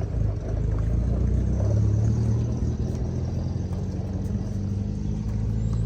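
A vehicle engine running steadily at a constant speed, a low, even drone with no revving.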